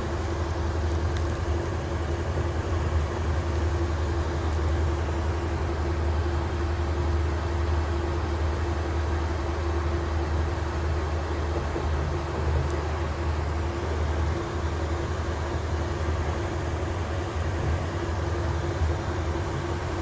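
Passenger train running, heard from inside the carriage: a steady low rumble with a constant hum over it.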